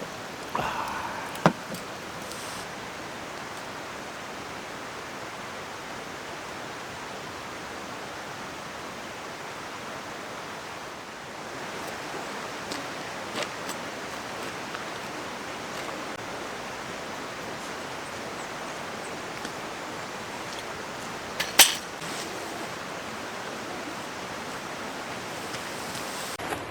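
Mountain stream running: a steady rush of water, broken by a few sharp clicks, the loudest about three-quarters of the way through.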